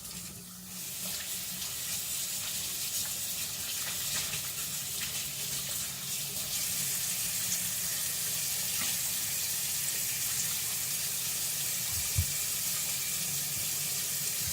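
Tap water running steadily into a sink, with a single knock about twelve seconds in.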